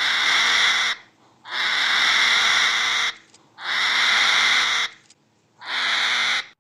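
An animal giving four long, harsh, raspy calls in a row, each about a second or more, with short pauses between.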